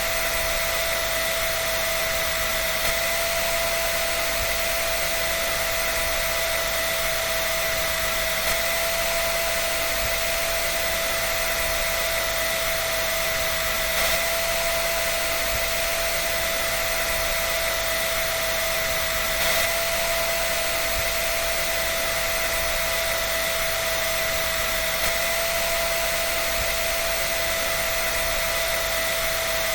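Hair dryer running steadily: a constant rush of air with an unchanging whine from its motor.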